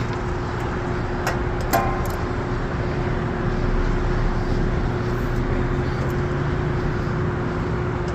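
Steady mechanical hum holding one constant tone, with two sharp clicks close together about a second and a half in.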